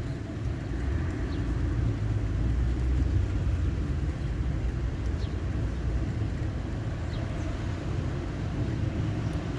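Thunder rumbling in the distance, a deep low roll that swells a couple of seconds in and then slowly dies back down.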